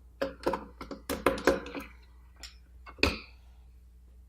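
Small sharp clicks and taps of a screwdriver, a small screw and the battery cover on the thermometer's housing as the cover is freed: a quick run of clicks over the first couple of seconds, then a single louder click about three seconds in.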